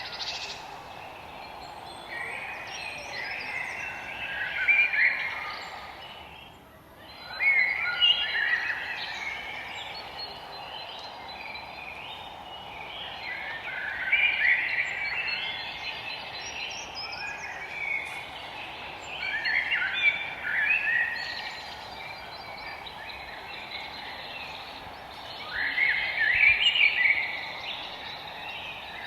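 Forest songbirds singing in bursts of rapid, chirpy phrases every few seconds, over a steady background hiss. The level drops briefly about a quarter of the way in.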